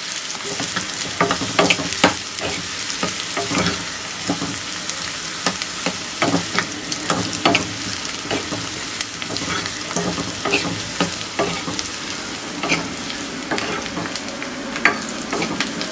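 Chopped onion, curry leaves and dried red chillies sizzling in oil in a small black kadai, frying until brown for a tempering, while a steel ladle stirs and scrapes the pan in frequent short strokes.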